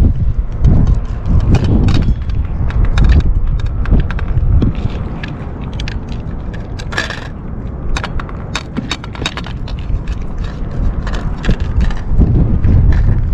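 Strong wind buffeting the microphone with a heavy rumble, and scattered light clicks and scrapes over it, thickest about halfway through.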